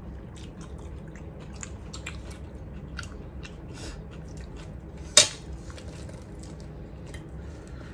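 People chewing a rice meal eaten by hand, with small wet mouth clicks and smacks throughout. One sharp, louder click comes about five seconds in.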